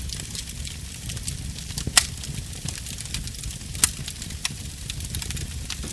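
Wood fire burning in a fireplace: sharp crackles and pops over a low steady rumble of the flames, with two louder pops, about two seconds in and near the four-second mark.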